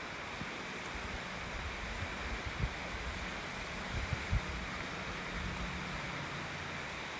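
River water rushing steadily, with low rumbling and a few dull thumps in the middle, the strongest about four seconds in.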